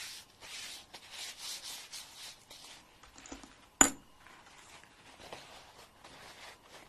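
Short scratchy rasping strokes of a fingernail being ground, several in the first three seconds. A single sharp click just before the middle is the loudest sound, and fainter scratching follows.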